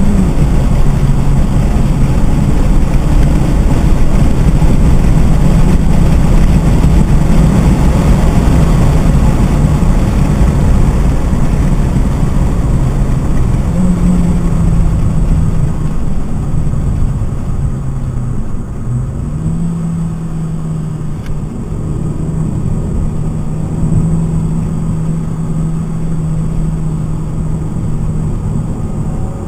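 Stock 2012 Mitsubishi Lancer's four-cylinder engine, heard from inside the cabin while lapping a race track under load. The engine note holds fairly steady and rises about halfway through. It then drops and eases off about two-thirds of the way in, and picks up again soon after.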